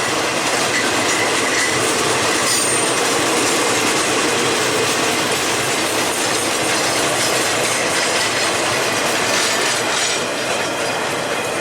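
Freight train cars rolling past, a steady loud rumble of steel wheels on rail with faint wheel squeal.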